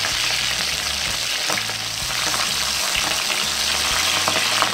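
Shrimp deep-frying in hot oil in a wok: a steady, hissing sizzle with a few sharp pops.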